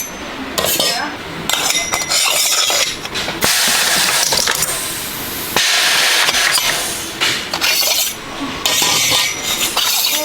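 Workshop noise: repeated bursts of hissing that start and stop abruptly, with scattered metallic clinks.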